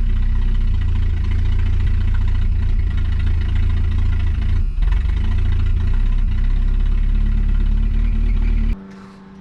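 1981 AMC Spirit's 4-cylinder engine (the GM 2.5-litre Iron Duke with a two-barrel carburettor) idling rough and steady on a held-on choke after years of sitting, wavering briefly about halfway. It cuts off abruptly near the end. It is starved of fuel, which the owner thinks might need an accelerator pump.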